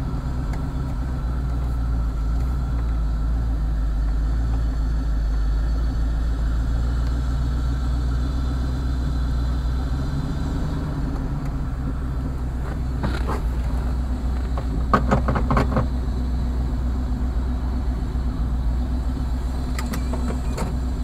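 Countach replica's engine running steadily at low revs, heard from inside the open cockpit, with a few short clicks about two-thirds of the way through.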